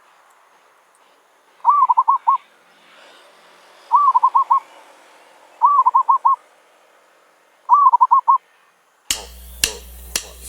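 Zebra dove (merbok) cooing: four bursts of quick rolling coos, each a run of about five notes, about two seconds apart. Near the end the sound cuts abruptly to a series of clicks over a low hum.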